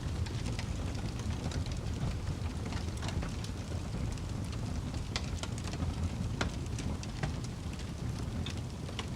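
Campfire burning: a steady low rumble of flame with scattered sharp crackles and pops from the burning wood, a few of them louder.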